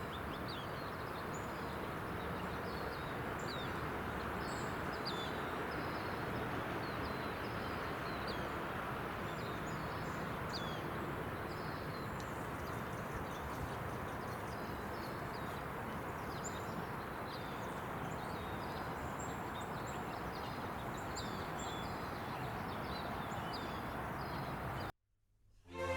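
Small birds chirping, many short high calls and quick slurred notes scattered throughout, over a steady background rush.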